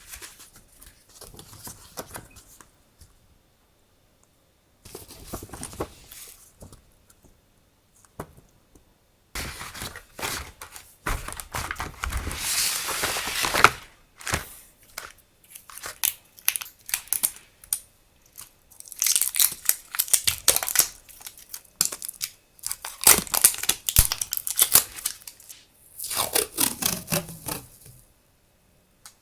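Stationery packaging and paper being handled and torn open: bursts of rustling, crinkling and tearing with short pauses between.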